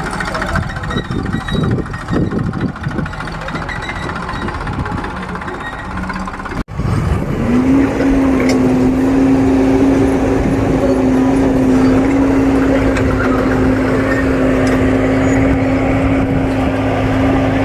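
Diesel engine of heavy machinery running. After a brief break about seven seconds in, the engine rises in pitch and holds steady at higher revs.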